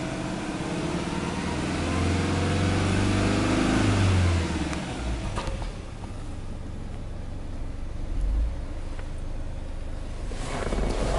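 Subaru Legacy 2.5GT's 2.5-litre turbocharged EJ25 flat-four (boxer) engine, heard from inside the cabin, revved lightly in Park. The revs climb gently for about four seconds, then the engine drops back to a steady idle, with a few light clicks near the end.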